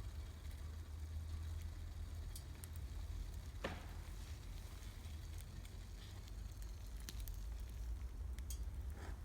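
Wood campfire crackling, with scattered small ticks and two louder pops, one a few seconds in and one near the end, over a steady low rumble.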